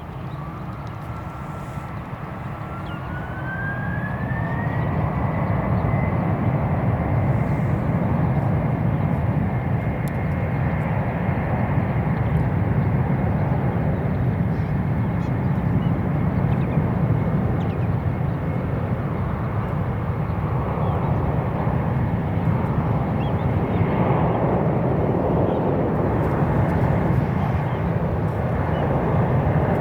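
Boeing 747 freighter's four jet engines spooling up: a whine rises in pitch and the roar grows louder over the first few seconds. It then settles into a steady high whine over a loud, deep roar at takeoff power.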